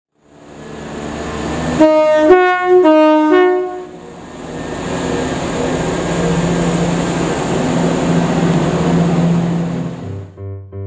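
Approaching diesel multiple unit sounding its two-tone horn, the notes alternating high and low several times over about two seconds. It then runs in with steady engine and wheel-on-rail noise, which cuts off near the end.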